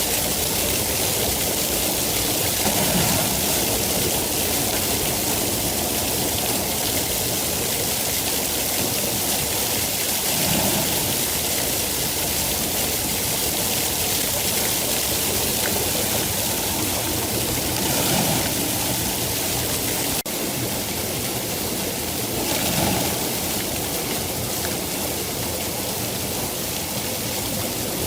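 Steady heavy rainfall, an even hiss with a few brief swells every several seconds and a slight sudden drop in level about two-thirds of the way through.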